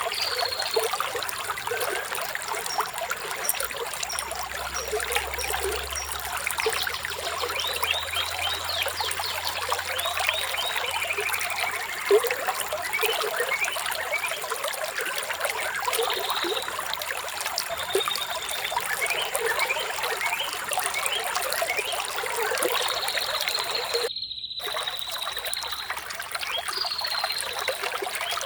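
Small stream trickling and babbling steadily, with birds chirping over it in short whistled notes and a few falling trills.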